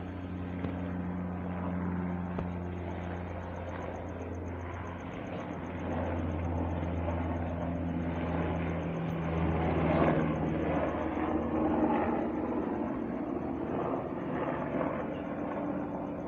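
A steady low engine hum with one clear overtone, shifting slightly in pitch about five and nine seconds in and growing rougher and louder for a couple of seconds around the middle.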